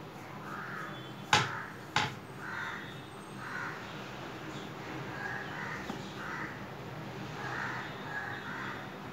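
Birds calling again and again in short, harsh calls. Two sharp clicks come just over a second in, about half a second apart.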